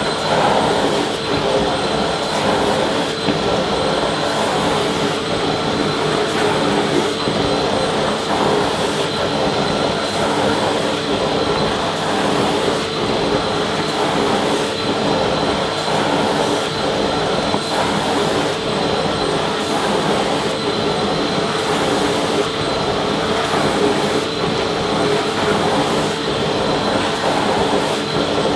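Vacuum cleaner running continuously: a steady rushing noise with a constant motor whine that does not change in pitch.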